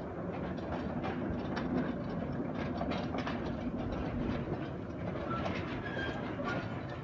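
Small tourist train running along its track: a steady rumble with irregular clicks and clacks of the wheels over the rail joints, and a few brief thin high tones near the end.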